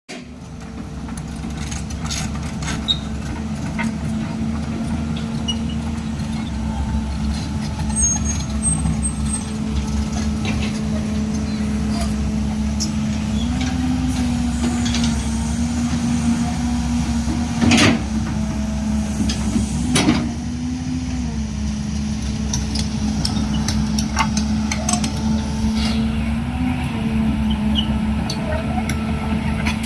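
Caterpillar E180 excavator's diesel engine running steadily. Its pitch rises for several seconds midway, and two sharp knocks come a couple of seconds apart during that stretch.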